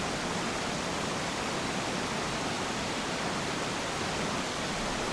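Peiran Falls waterfall: water pouring and rushing in a steady, even roar with no breaks.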